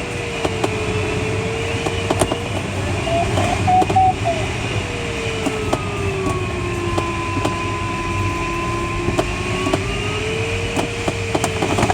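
Airflow rushing around a Schleicher ASK21 glider's cockpit, with an electronic variometer tone that slides slowly down and back up in pitch as the glider meets sink and lift along the ridge. Scattered small clicks and knocks from the cockpit sound throughout.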